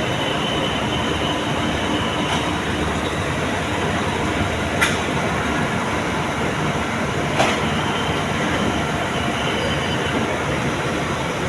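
Diesel-hauled passenger train rolling slowly along the station track, a steady rumble with a thin high wheel squeal. Two sharp clicks stand out, about five and seven and a half seconds in.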